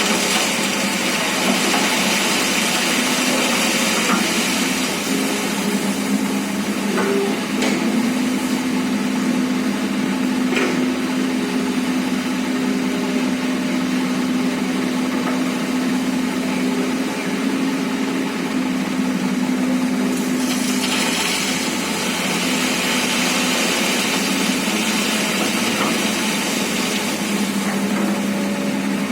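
Excavator's diesel engine running steadily under work, with a rushing hiss near the start and again for several seconds later on, and a few short knocks.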